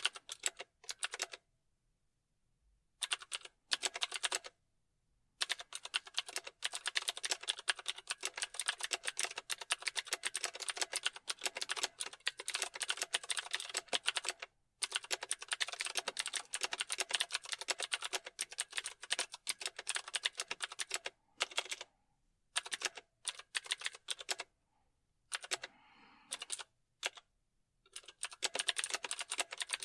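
Fast typing on a computer keyboard: rapid runs of key clicks in bursts lasting several seconds, broken by brief pauses.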